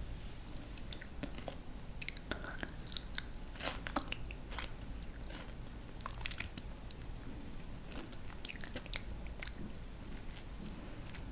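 Close-up chewing of crisp raw vegetables: irregular wet crunches and snaps as the pieces are bitten and broken down.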